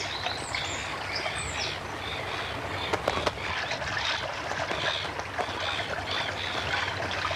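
Many birds calling over one another in a nesting colony, short calls repeating throughout, with some water splashing and a few sharp clicks about three seconds in.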